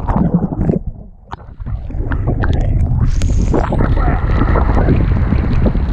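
Wind buffeting a GoPro's microphone during kiteboarding, a loud low rumble with water splashing and sharp ticks, easing briefly about a second in.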